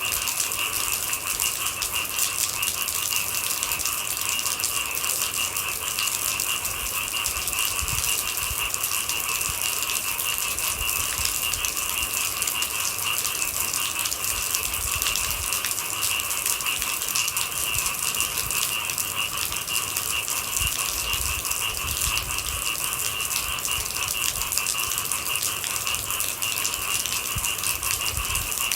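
Steady rain, a dense patter of drops, with a steady high chorus of night animals running through it.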